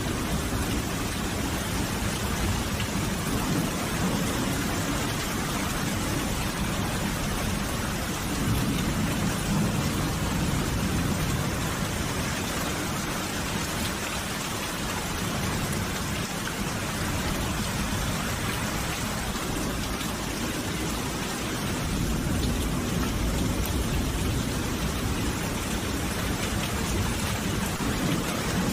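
Steady rain falling, with a low rumble swelling and fading a few times underneath.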